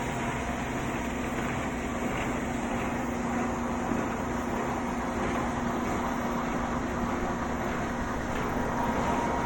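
Heavy-duty air filter paper pleating machine running: a steady mechanical hum with a constant low tone and a fainter higher one.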